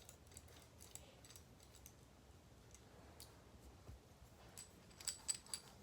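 Faint, scattered light clicks of small metal parts of a butterfly knife trainer being handled, with a quick cluster of sharper clicks near the end.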